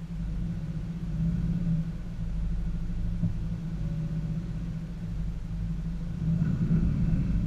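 2014 Subaru Forester's 2.5-litre flat-four engine pulling the car slowly over a rough forest trail, heard from inside the cabin as a steady low rumble. It grows louder near the end as the engine takes more throttle.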